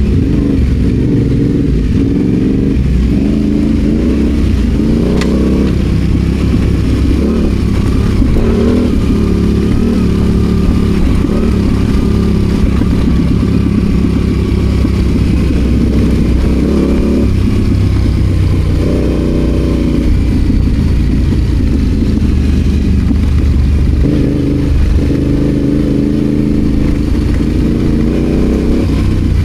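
Adventure motorcycle engine pulling off road, its revs rising and falling with the throttle, over a steady low rumble.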